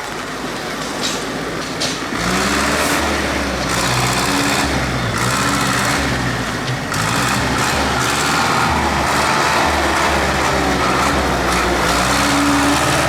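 Tractor engine running, getting louder about two seconds in, with its pitch rising and falling as the engine speed changes.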